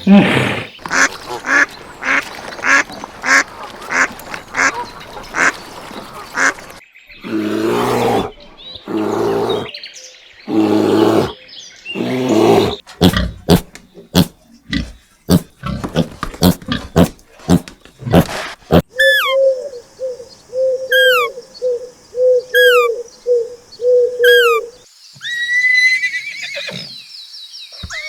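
A succession of different animal calls, cut one after another: rapid repeated calls first, then longer calls, then sharp clicks, and in the second half a bird repeating short falling whistles about every second.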